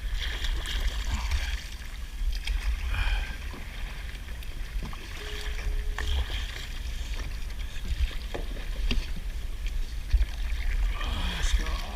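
Kayak sounds on open water: a constant low rumble of wind on the microphone with scattered small knocks and clicks of gear against the hull, and water sounds around the boat.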